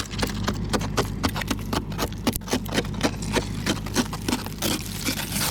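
Ice scraper chipping and scraping thick glaze ice off a car windshield in rapid repeated strokes, about three or four a second, as the ice breaks up. A running car engine hums steadily underneath.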